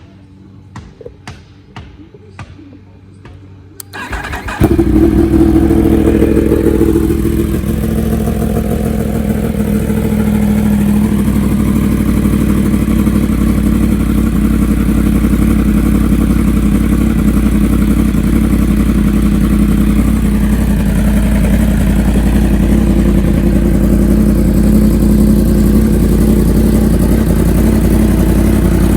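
Yamaha R1 inline-four motorcycle engine starting about four seconds in, after a series of light clicks, then settling into a steady idle. Its revs rise briefly just after it catches.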